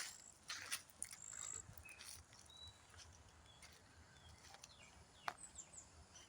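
Faint outdoor ambience with scattered clicks and a few short, high chirps.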